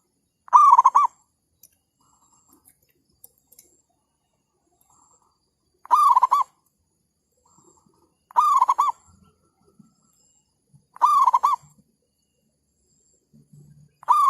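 Zebra dove cooing: short phrases of a few quick notes, each about half a second long, repeated four times a few seconds apart, with a fifth starting at the very end.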